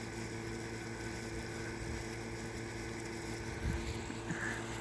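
Air conditioner running with a steady hum. A short higher-pitched sound comes about four seconds in.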